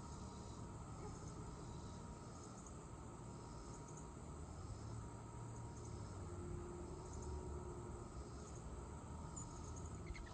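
Insects trilling steadily at a high pitch, with a few faint bird chirps and a low outdoor rumble underneath.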